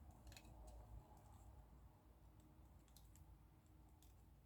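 Near silence, with a few faint scattered clicks of small plastic model-kit parts being handled.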